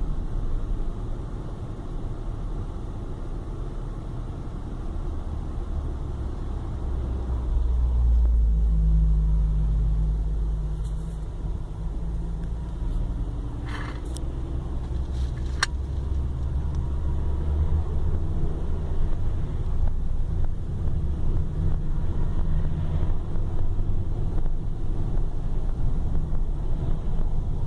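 A car driving, heard from inside the cabin: steady low road and engine rumble that swells for a few seconds partway through, with a couple of short sharp clicks about fourteen and sixteen seconds in.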